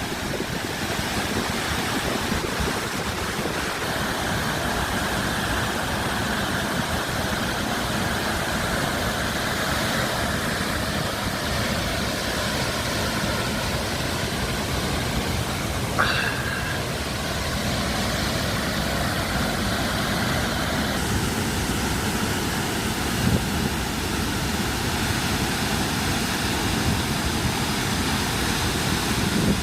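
Blue Nile Falls roaring steadily, a dense, even rush of falling water, with one brief sharp sound about halfway through.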